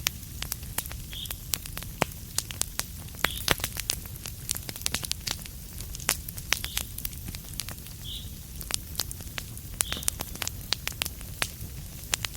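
Wood fire crackling: a steady stream of sharp pops and snaps over a low, even rumble. A short faint high chirp recurs every couple of seconds.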